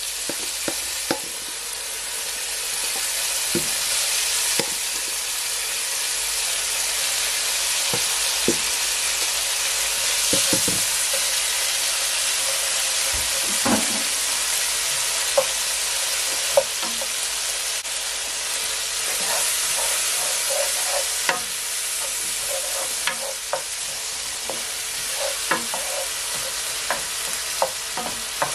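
Chopped vegetables sizzling steadily as they sauté in a little oil in a nonstick pot, while a spoon stirs them, scraping and knocking against the pan now and then.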